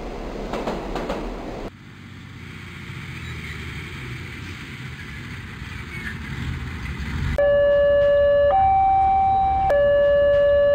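A toy train rattles past and cuts off, followed by a low rumble that slowly grows. About seven seconds in, a model level crossing's electronic warning signal starts: a loud two-tone hi-lo alarm switching pitch about once a second.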